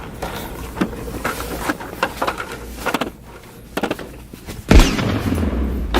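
Scattered light knocks and handling clatter, then one loud thump nearly five seconds in, followed by a low rumble lasting about a second.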